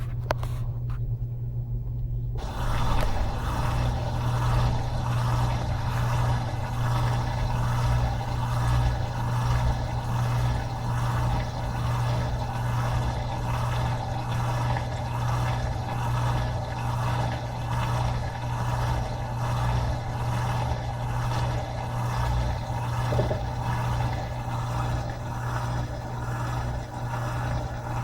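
Top-load washing machine draining: the drain pump hums steadily, and about two seconds in a rushing noise of water being pumped out joins it, pulsing a little more than once a second.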